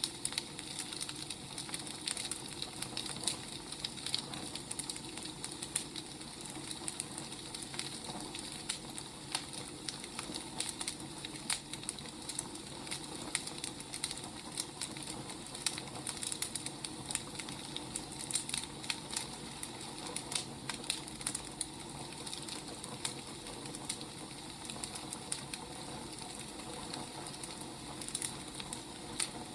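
Firewood burning: steady crackling, with frequent small sharp pops over a soft hiss.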